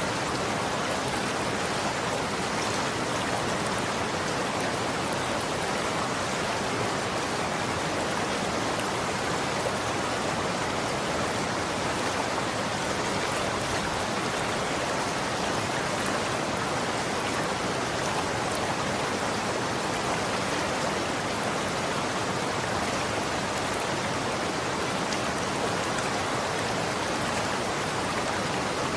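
Running water flowing steadily, an even rushing noise with no pauses or changes.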